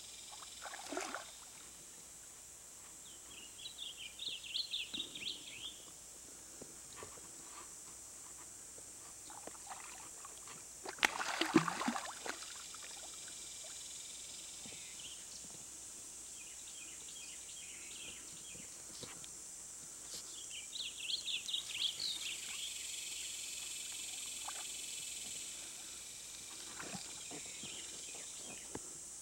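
Outdoor riverside ambience: a bird sings in two bursts of rapid high chirping notes, over a steady high-pitched hiss. A louder brief noise comes about eleven seconds in.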